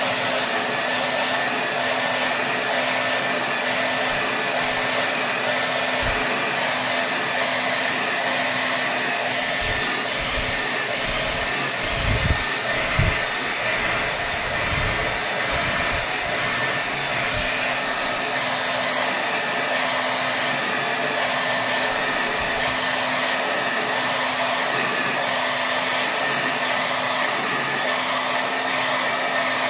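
Hair dryer blowing steadily at full power, a dense rush of air over a steady motor hum. A few low bumps come through near the middle.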